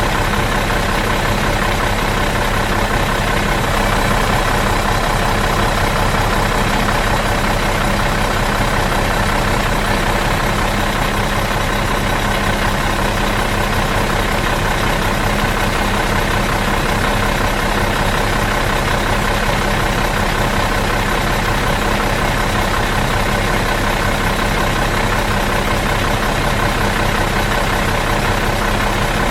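Bus engine idling in neutral, a steady unchanging drone with a constant low hum.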